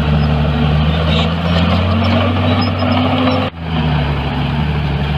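Heavy diesel engine of earthmoving equipment running steadily, its note rising slightly for a moment, with a brief sudden dropout about three and a half seconds in.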